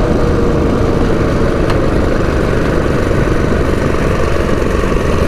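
Modified Predator 212 single-cylinder four-stroke engine (big carburetor, billet rod and flywheel) on a mini bike, running steadily under way. Its pitch eases slightly down at the start, then holds, with one short click about two seconds in.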